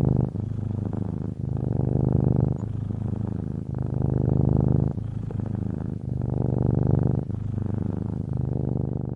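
Domestic cat purring steadily, a fast low rumble that swells and eases with each breath in and out, about every two and a half seconds.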